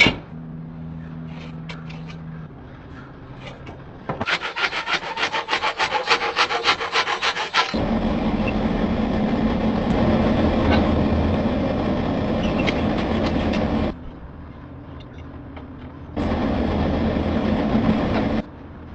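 Abrasive work on the leaf-spring steel. First a few seconds of fast, rhythmic rasping strokes, then a steady grinding noise that starts and stops abruptly, twice.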